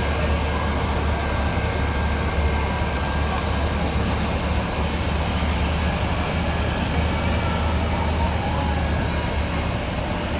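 Engine of a 1937 Mack AC6 chain-drive truck running steadily at a deep, even pitch, under load pulling the sled at a truck pull.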